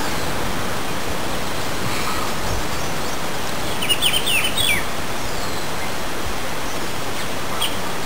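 A bird gives a quick run of about five short, falling chirps about halfway through, over a steady outdoor hiss.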